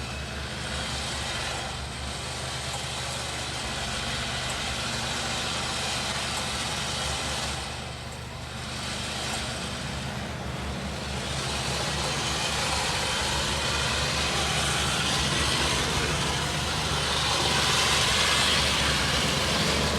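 Off-road 4x4's engine running steadily at low revs, with a rushing noise that builds up in the second half.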